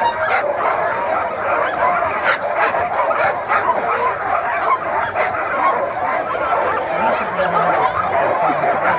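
A large pack of sled dogs barking, yipping and howling all at once in a dense, unbroken chorus, the clamour of excited dogs with lots of pent-up energy before a run.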